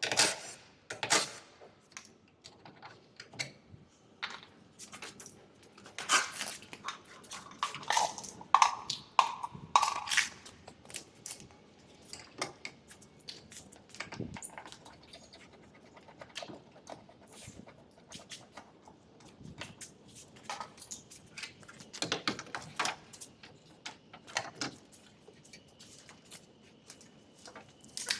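Irregular clicks and knocks of hand tools and metal parts being handled, some ringing briefly. A few short pitched sounds come in quick succession about a third of the way in.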